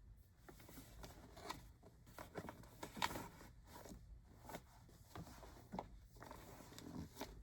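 Faint, scattered rustles and light taps of yarn skeins and a bag being handled and shelved.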